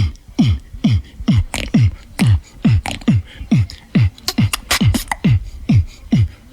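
Human beatboxing: a deep kick sound that drops sharply in pitch, repeated about twice a second in a steady beat, with sharp clicks and hissing hi-hat-like sounds between the kicks. It is one mouth sound varied into a beat.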